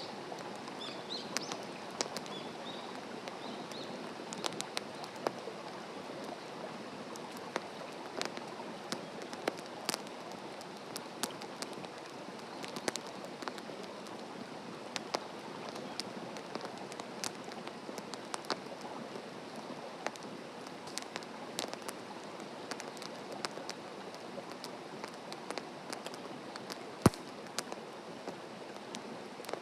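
Wood fire burning in a fire stand, crackling with frequent sharp pops over a steady hiss; one louder pop near the end.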